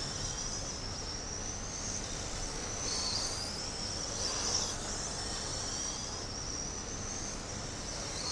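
Radio-controlled race trucks' motors whining as they lap the track, the high pitch rising and falling as they brake into the corners and accelerate out.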